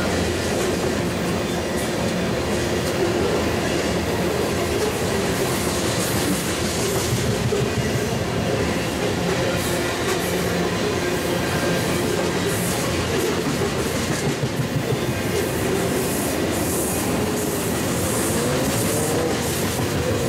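Freight train of tank cars rolling past: a steady rumble and clatter of steel wheels on rail joints, with wheel squeal coming and going, rising and falling near the end.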